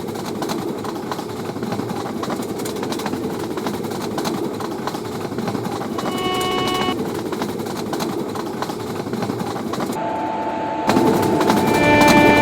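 Train running past with a steady rumble of wheels on rail. A locomotive horn gives a short toot about six seconds in, and near the end, after a brief break, a louder horn sounds over the running noise.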